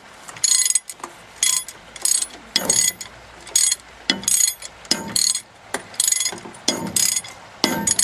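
Hand ratchet clicking in repeated short strokes, about one and a half a second, as bolts are undone on a truck's four-wheel-drive axle.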